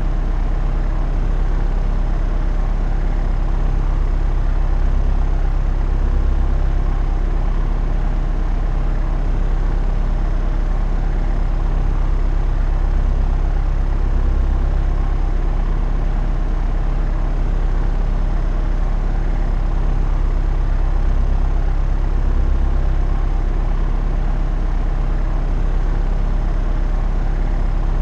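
Propeller aircraft in steady cruise flight: a constant low engine and propeller drone with a steady hum and no change in pitch or level.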